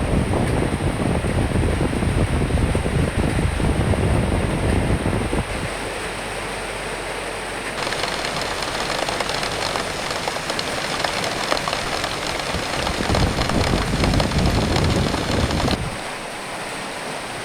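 Rain and wind: a steady hiss of rain with gusts of wind rumbling low in the first few seconds and again near the end.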